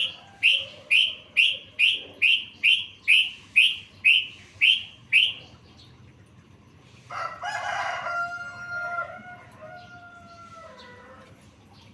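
A bird's sharp, falling chirp repeated about a dozen times, roughly two a second, then a rooster crowing in one long drawn-out call that drops in pitch at the end.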